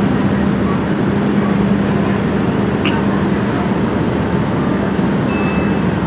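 A docking ferry's engines running with a steady drone and a constant low hum. There is one short click about three seconds in.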